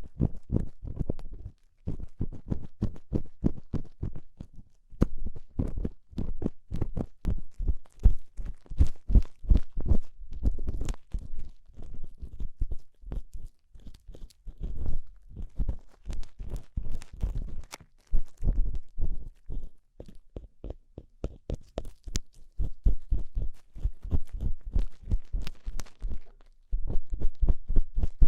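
Ear-cleaning tool scraping and scratching inside a binaural microphone's ear, for a crunchy earwax-scraping effect: rapid rough strokes, several a second, in runs broken by brief pauses.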